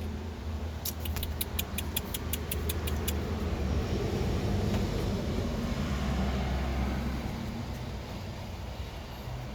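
A motor vehicle passing by, its sound swelling a few seconds in and fading, over a steady low hum. Early on there is a quick run of about a dozen light clicks, about six a second.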